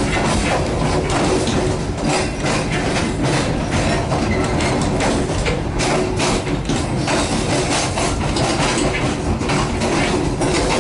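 Passenger train running through a yard, its wheels rolling over rail joints and points with an irregular clatter of clicks over a steady rumble.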